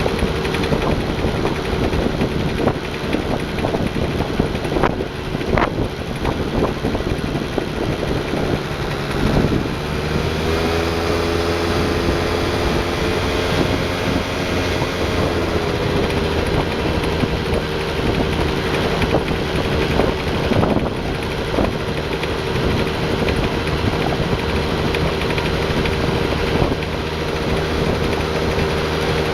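Yamaha Grand Axis scooter engine running, its pitch shifting as engine speed changes between about ten and sixteen seconds in, with a few sharp clicks standing out above the running sound. The owner reports a knocking noise from around the engine that appears when the throttle is eased to part-open from about 4500 rpm.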